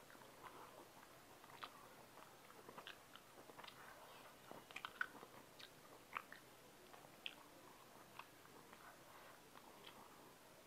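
Faint chewing and eating sounds of a person eating cooked prawns by hand: irregular soft clicks and mouth smacks, a little louder about five seconds in.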